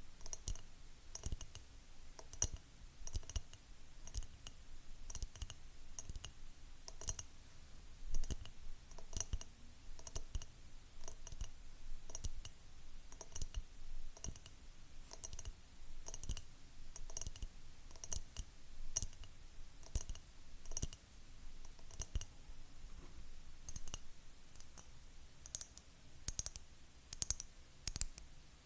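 Fingernails tapping quickly on hard objects: sharp clicks, several a second in uneven clusters, some with a faint ring.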